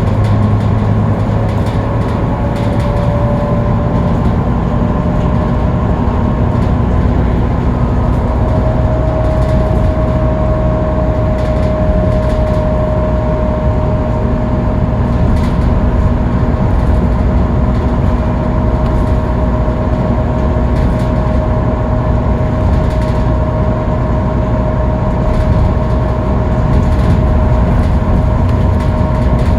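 Scania K310UB city bus at freeway speed, heard from on board: a steady diesel drone and road rumble with a constant high whine. The whine rises slightly in pitch about eight seconds in, then holds.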